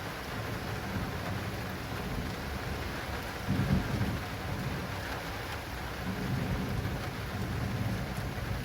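Heavy rain pattering steadily on an acrylic rain awning, with thunder rumbling low underneath; the thunder swells loudest about three and a half seconds in and rolls up again a little later.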